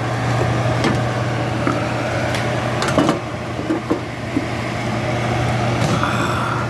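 Vent-A-Hood range hood fan running with a steady hum, with a few light clicks and knocks over it.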